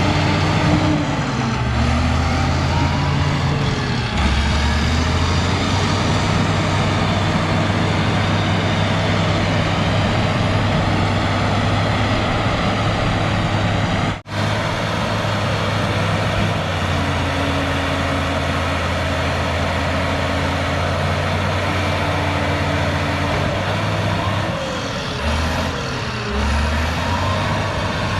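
Cat D6H bulldozer's diesel engine working, its pitch stepping up and down several times, with faint squeals over it and a brief dropout about halfway through.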